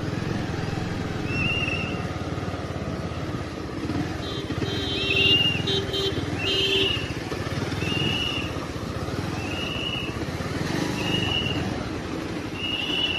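Hero XPulse 200's single-cylinder engine running at low speed as the motorcycle rolls slowly into a parking spot. Short high chirps repeat about every second and a half over the engine.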